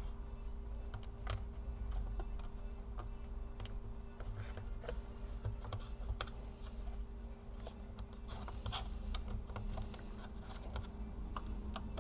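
Light, irregular clicks and taps of hands working inside a laptop, fitting its internal cables and small parts back into place, over a steady low hum.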